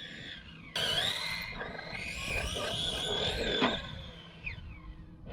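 An RC monster truck's motor winds up loud with a wavering whine as the truck runs at the jump, starting suddenly about a second in and ending in a knock near the four-second mark.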